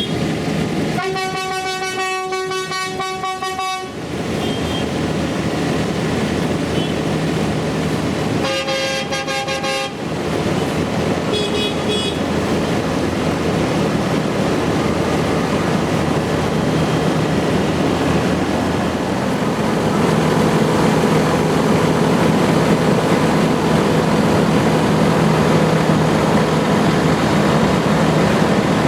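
Diesel tractor engines running steadily, getting louder near the end as more come close. Over them a horn is held for about three seconds early on, sounds again for about a second and a half midway, and gives a short toot soon after.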